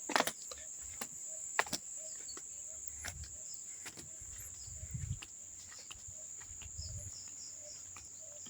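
Steady high-pitched insect chirring of crickets, with faint short animal calls repeating and a few soft low thumps around the middle.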